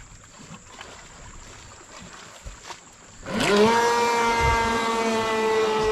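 Traxxas Blast RC boat's electric motor and propeller starting up: fairly quiet at first, then about three seconds in a whine rises quickly in pitch and holds steady as the boat runs off.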